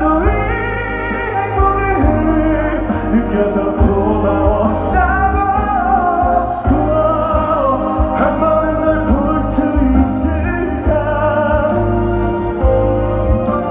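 Male vocalist singing a pop ballad live over a full band backing, with long gliding vocal lines above a steady low bass.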